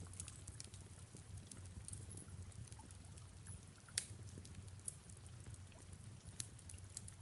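Faint wood fire crackling, with scattered small pops and one sharper pop about four seconds in, over a low steady rumble.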